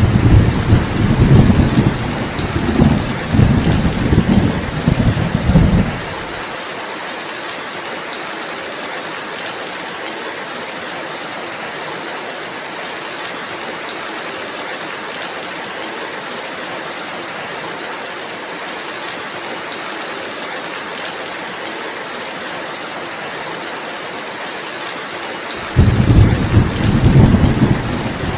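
Steady rainfall, a constant even hiss, with deep thunder rumbling for about the first six seconds. The thunder comes back suddenly a few seconds before the end.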